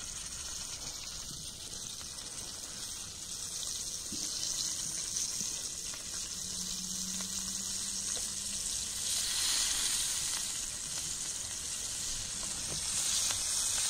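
Battered fish pieces frying in hot oil in a pan: a steady sizzle that swells about nine seconds in and again near the end.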